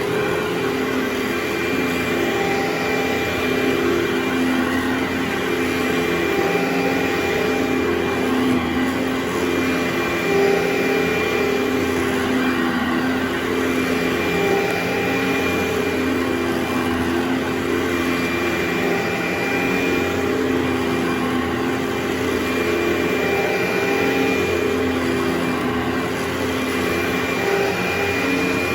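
Carpet-cleaning machine's vacuum running steadily: a constant rushing noise with a steady hum and a thin high tone held over it.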